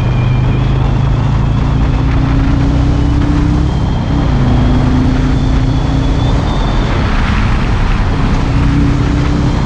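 Harley-Davidson Road King's V-twin engine running under way. Its note climbs slowly, dips about four seconds in and climbs again. Wind and road noise run underneath.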